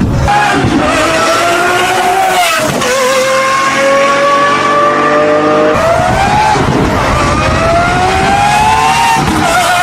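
V12 supercar engine accelerating hard through the gears: the engine note climbs steadily, drops sharply at each upshift, then climbs again, three times.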